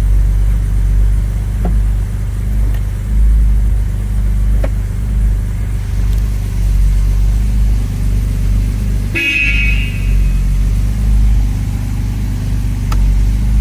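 A 1970 Mercedes 280SL's 2.8-litre M130 inline-six, with Bosch fuel injection, running steadily at idle after a cold start. About nine seconds in, a car horn gives one short toot.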